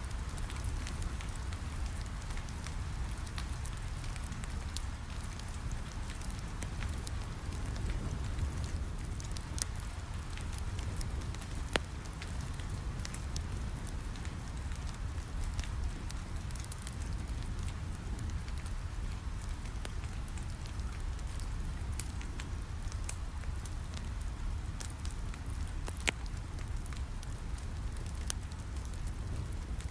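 Rain falling steadily on a window, mixed with a wood fire crackling in a fireplace: a low, even rumble with scattered sharp pops and snaps.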